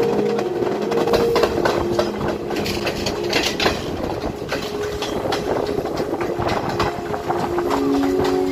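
Passenger train carriage running along the track, its wheels clattering irregularly over the rail joints under a steady rumble, heard through an open carriage window.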